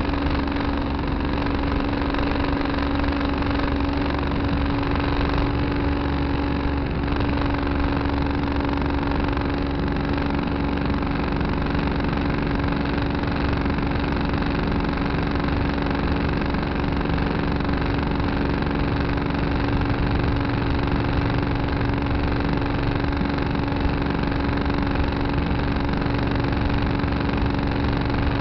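Tractor engine running steadily at an even speed, with a strong steady hum.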